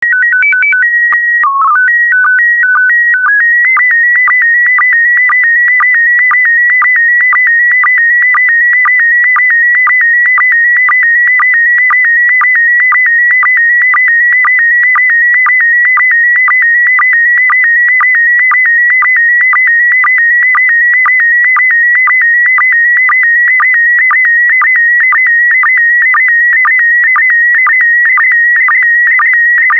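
Slow-scan TV (SSTV) transmission in PD120 mode. It opens with the stepped steady tones of the calibration header. From about three seconds in comes the picture signal: a warbling tone near 2 kHz broken by short sync pulses about twice a second, one for each pair of image lines.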